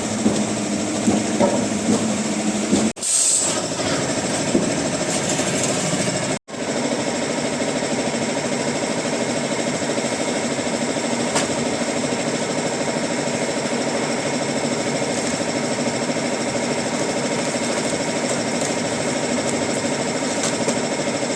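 Wood-processing machinery running steadily with a dense, rattling drone. The sound cuts out for an instant twice in the first few seconds.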